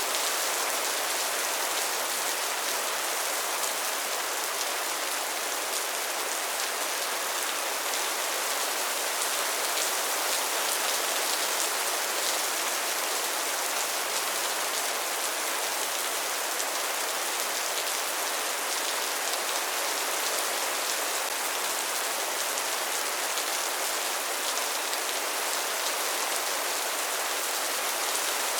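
Steady rainfall, a dense even patter of drops on a surface, with no thunder and no change in intensity.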